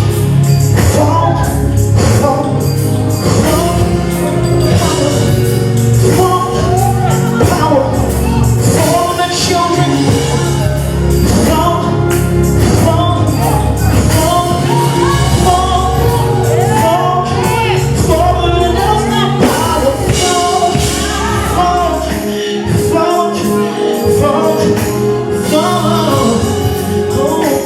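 Live gospel worship music: voices singing over a band with a steady bass line and beat.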